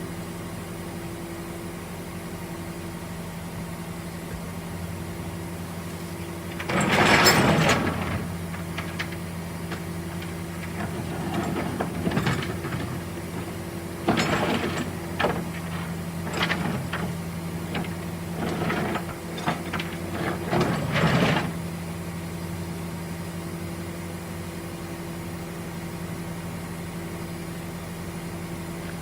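Vehicle engine idling steadily, with a loud clatter about seven seconds in followed by a series of shorter clattering noises up to about twenty-one seconds in.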